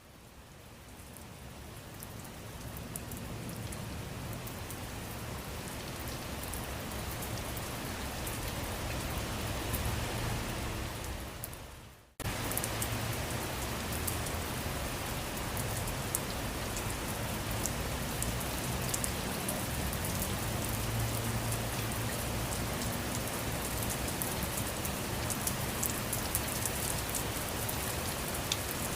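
Steady rain falling, an even hiss with scattered drops ticking through it. It fades up from silence at the start, dips away about twelve seconds in and comes straight back at full level.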